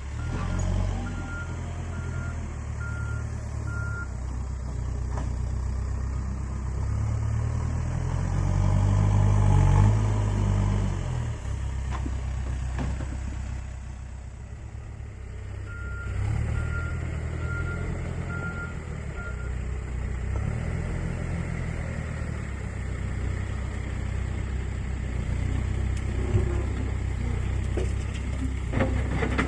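Case 580 Super N backhoe loader's diesel engine running and revving up under load, loudest about ten seconds in. A reverse alarm beeps about twice a second in two runs, near the start and a little past halfway.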